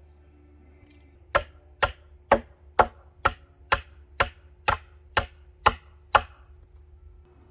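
Eleven sharp, evenly paced strikes, about two a second, that start over a second in and stop near the end.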